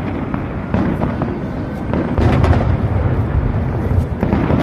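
Fireworks going off in a continuous rumble of low booms, with sharp cracks about one, two and four seconds in; the rumble grows louder about halfway through.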